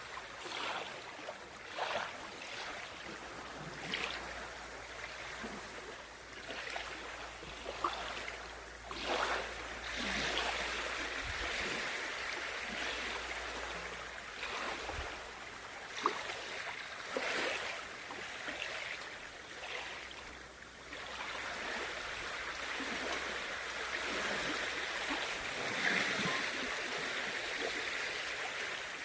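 Lake water lapping and splashing at the shore: a steady wash of moving water with small splashes every second or two.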